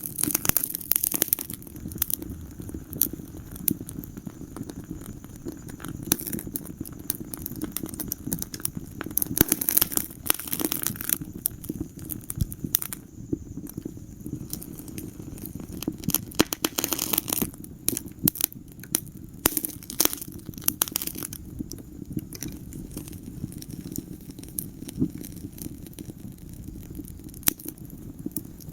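Wood fire crackling and popping, irregular sharp snaps coming in clusters over a steady low rumble of burning.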